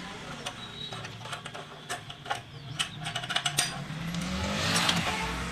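Metal tools clinking and clicking against scooter engine parts during disassembly: scattered sharp ticks and taps. A louder rising whir builds near the end.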